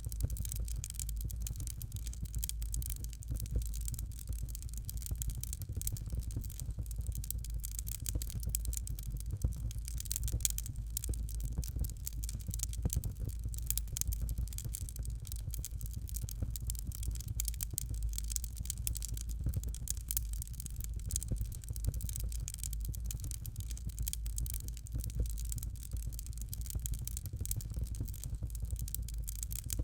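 Fire crackling in a fireplace: dense, irregular small crackles and pops over a steady low rumble.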